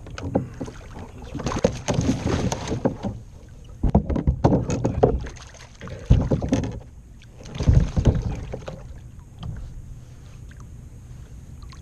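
Handling noises aboard a fishing kayak: irregular knocks, bumps and rustling against the hull in four or so bursts, quieter toward the end.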